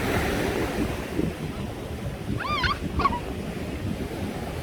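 Sea surf and wind buffeting the microphone in a steady low rumble. About two and a half seconds in there is a short, high, wavering cry, and a brief second one follows just after.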